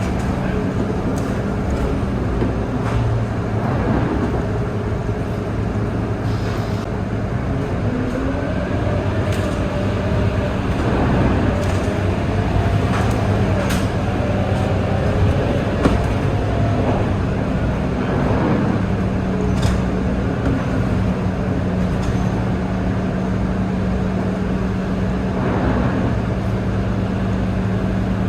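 Scania K230UB city bus running, its five-cylinder diesel engine giving a steady low hum, with scattered clicks and knocks over it.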